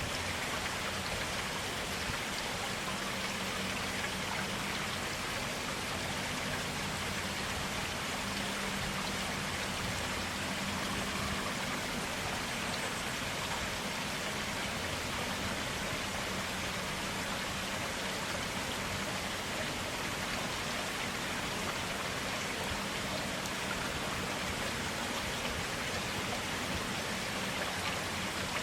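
Clear stream water running steadily, a continuous even rush and splash with no pauses.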